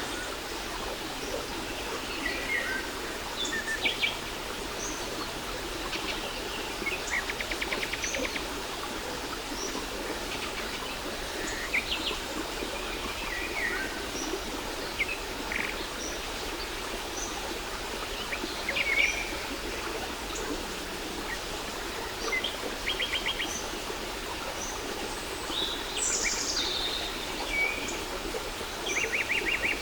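Steady rush of a waterfall with several birds chirping and calling over it, mixing short notes, quick rising and falling calls and a few rapid trills, such as about 7 seconds in, about 23 seconds in and near the end.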